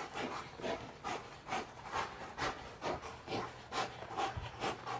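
Belgian Malinois panting at an even rhythm of about two breaths a second, after working through obedience commands.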